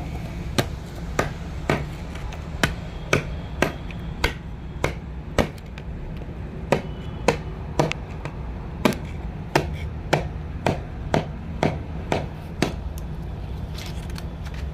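Repeated hammer blows, about two a second, with a short break near the middle, over a steady low hum.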